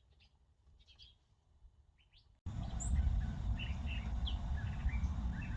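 Small birds chirping and twittering: a few faint chirps at first, then from about two and a half seconds in a sudden louder stretch of many overlapping chirps over a low steady rumble.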